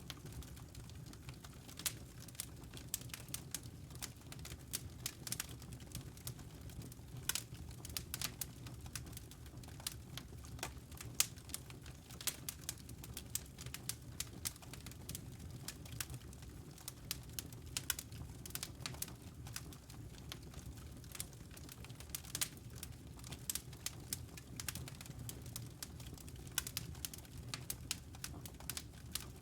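Wood fire crackling: irregular sharp pops and snaps, several a second, over a steady low background noise.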